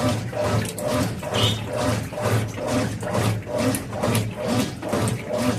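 Small washing machine agitating a double bedspread in rinse water: the agitator swings back and forth about twice a second, each stroke a motor hum with water sloshing.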